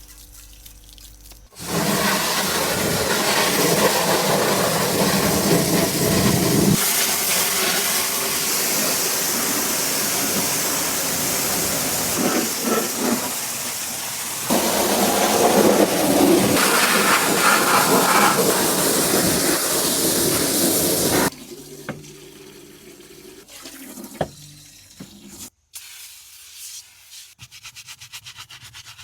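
Pressure washer spraying water in a loud, steady hiss that shifts in tone twice and cuts off abruptly about two-thirds of the way through. After it stops, only faint scattered clicks remain.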